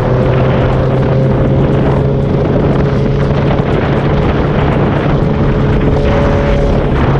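Inline-four superbike engine running at steady cruising revs under a rush of wind. The engine note holds one even hum with a slow, slight rise in pitch.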